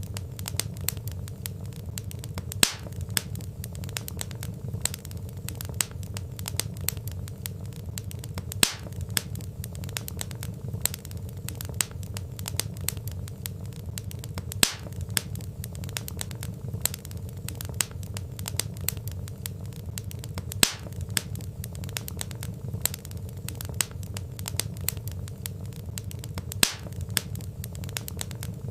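Wood fire crackling: dense small crackles over a low steady rumble, with a sharper pop about every six seconds.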